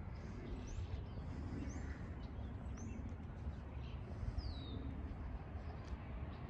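Several short, high bird chirps about a second apart over a steady low rumble of outdoor background noise.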